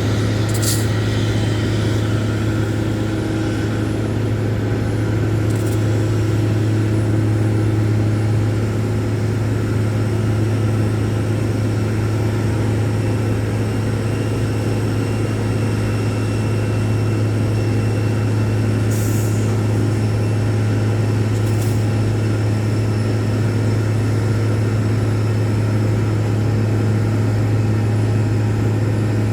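Steady low drone of an idling engine, unchanging throughout, with a few faint ticks.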